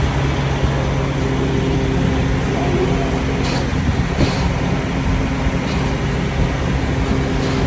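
Converted school bus's engine idling steadily, with a few faint ticks about three and a half and four seconds in.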